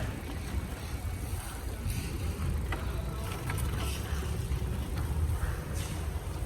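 Wind rumbling on the microphone during a bicycle ride, with a few faint clicks and rattles.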